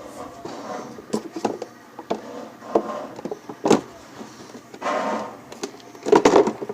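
An irregular series of sharp clicks and short knocks, with two louder clattering bursts near the end.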